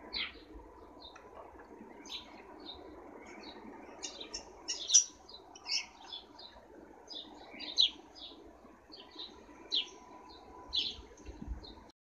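Small garden birds chirping in short, scattered calls, with the loudest chirps about five seconds in and several more near the end, over faint low background noise.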